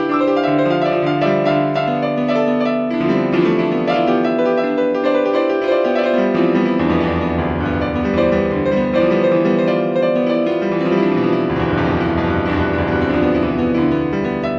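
Background piano music: sustained chords over a slowly moving bass line.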